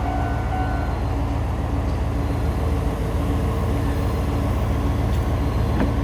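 Meitetsu electric train running over a level crossing: a steady heavy rumble of wheels on rail, with the crossing's warning bell ringing in a repeating pattern behind it and a few wheel clicks near the end.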